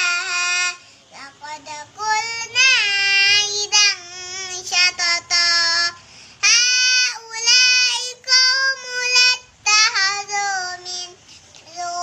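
A child's high voice reciting the Quran in a melodic chant, in long held phrases with short breaks for breath between them.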